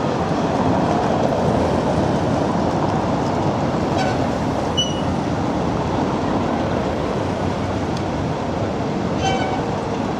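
Steady low noise of a river sightseeing boat under way: engine drone and water. A few faint short high-pitched sounds come about four seconds in and again near the end.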